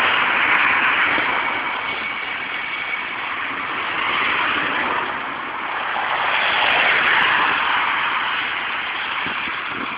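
Road traffic passing: a steady tyre-and-engine hiss that swells as vehicles go by, about four seconds in and again about seven seconds in.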